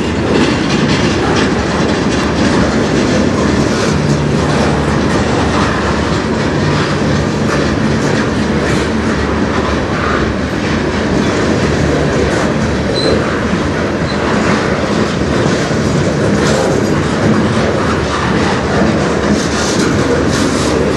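Freight cars of a manifest train (covered hoppers and centerbeam flatcars loaded with lumber) rolling steadily past: a continuous rumble of steel wheels on rail, with repeated clicks as the wheel sets cross rail joints.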